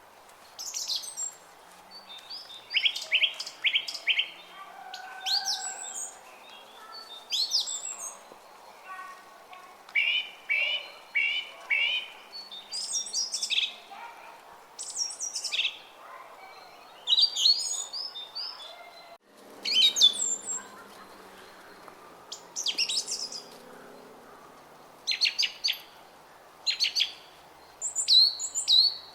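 Several songbirds chirping and singing in short, repeated high phrases, over the faint steady murmur of a brook.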